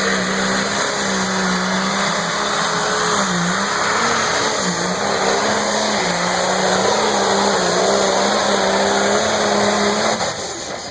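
Pulling tractor's engine running hard under load, holding a steady high note with a few brief dips in pitch, then easing off near the end.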